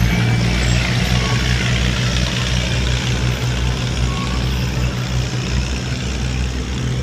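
Loud engine running steadily, with a deep, uneven low throb under a wash of noise.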